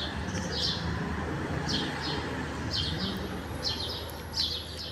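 Small birds chirping over and over, short high calls often coming in pairs, over a steady low background rumble.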